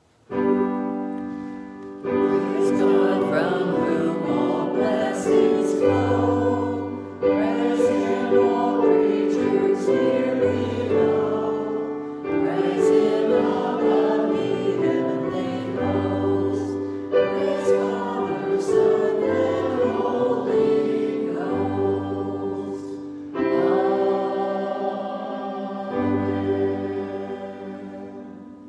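Choir singing a slow hymn in sustained chords, phrase after phrase, with bass notes beneath. It begins just after the start and fades out at the end.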